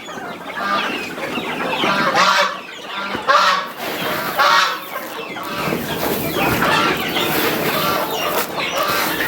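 A flock of chickens clucking and calling, many short calls overlapping, with a rustling noise joining in from about halfway through.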